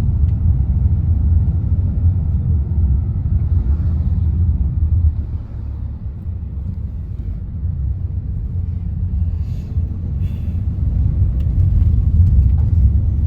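Engine and road rumble heard inside a moving tour bus: a low, steady drone that eases off about five seconds in and builds up again later.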